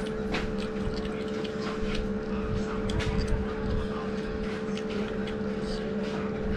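Close mouth sounds of someone eating grilled chicken by hand: short wet chewing and lip-smacking clicks, scattered irregularly. Under them runs a steady machine hum that holds one pitch throughout.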